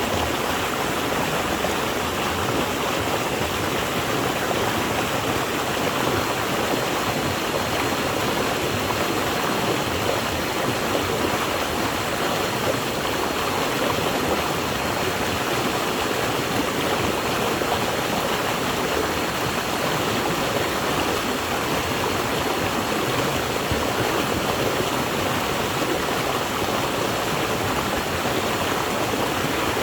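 Flowing water of a stream running steadily, an even rushing with no breaks or changes.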